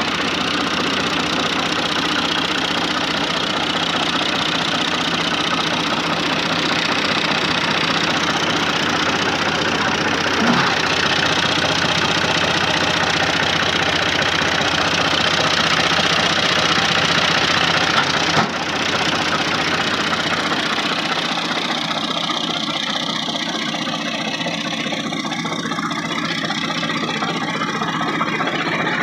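Tractor's diesel engine running steadily, with a brief click about two-thirds of the way in.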